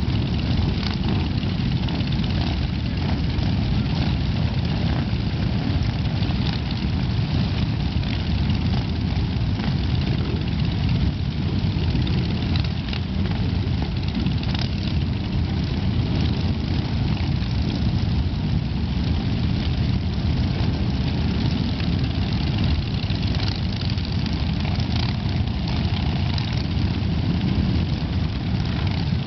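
A mass of motorcycles riding past in a steady, continuous low engine rumble, individual bikes revving now and then over the drone.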